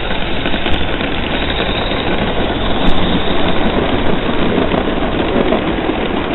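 Garden-scale live-steam model locomotive running with a steady hiss, which an onlooker thinks is running low on fuel.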